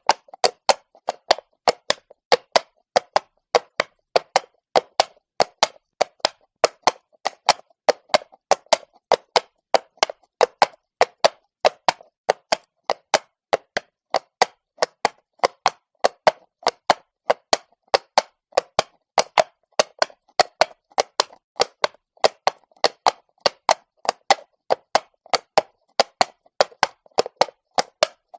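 Horse hooves walking on cobblestone, a steady four-beat walk of sharp knocks at about three to four strikes a second.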